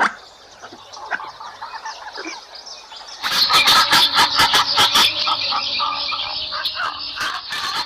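Animal chirping calls, faint and scattered at first, then from about three seconds in a loud, dense chatter of rapid chirps and clicks.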